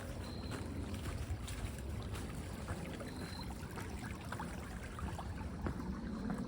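Small forest creek trickling and gurgling steadily, with many light scattered clicks and, three times, a brief high peep.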